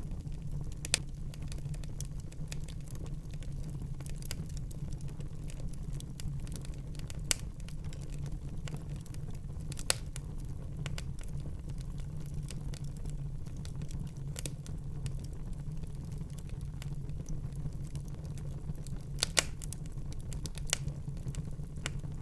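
Fire burning in a fireplace: a steady low rumble of the flames under constant small crackles, with a few louder pops now and then.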